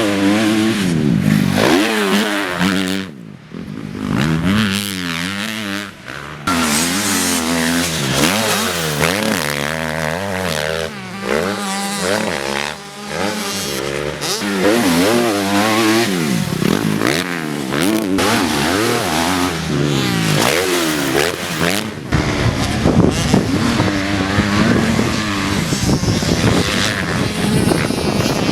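Dirt bike engine revving hard, its pitch repeatedly climbing and dropping as the throttle is opened and chopped and the gears change, with brief lulls a few seconds in. About two-thirds of the way through, wind starts buffeting the microphone.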